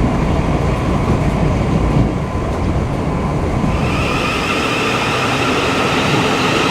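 Steady low rumble of a moving vehicle. About four seconds in, a steady whine with several pitches joins it.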